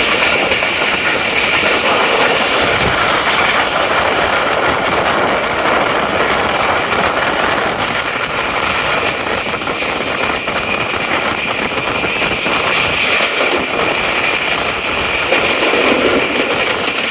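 Passenger train running at speed, heard from on board: a steady rush of wheel and rail noise with a steady high-pitched tone running through it.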